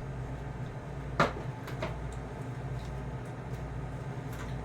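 Frozen food packages being handled and set into a freezer: one sharp knock about a second in, then a few lighter clicks, over a steady low hum.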